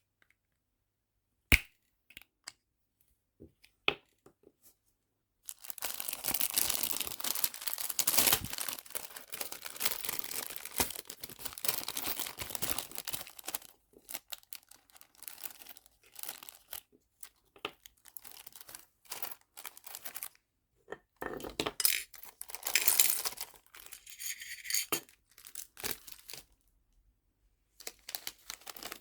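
Nail charms and their plastic packaging being handled: a few light clicks, then about eight seconds of dense crackling rustle, then more scattered clicks and short rustles.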